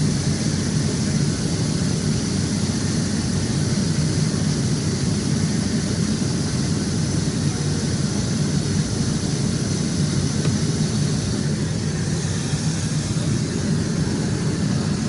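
Airliner cabin noise in flight: the steady engine and airflow noise heard inside an aircraft lavatory, a constant low rumble with a hiss on top.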